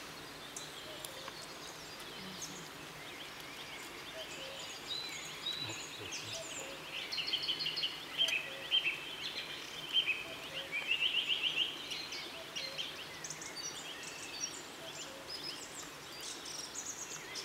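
Evening birdsong: several small birds chirping and trilling, busiest in the middle stretch and again near the end.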